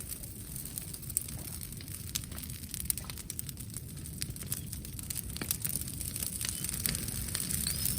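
Campfire of brushwood burning, with frequent sharp crackles and pops over a low steady rumble. A thin rising whistle begins near the end.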